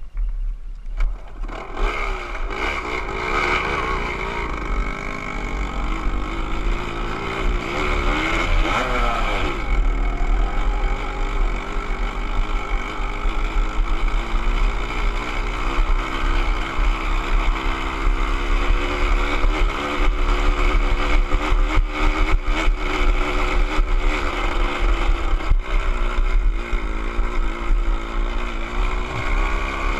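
Motorcycle engine running, its pitch rising and falling with the throttle for the first ten seconds or so, then holding steadier.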